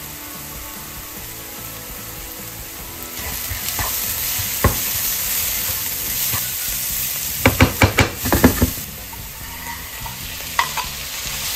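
Sliced mushrooms and onions sizzling in a hot nonstick frying pan, stirred with a wooden spatula. A quick run of knocks from the spatula against the pan comes a little after halfway, and a couple of clicks near the end as sliced tomatoes are pushed into the pan from a cutting board.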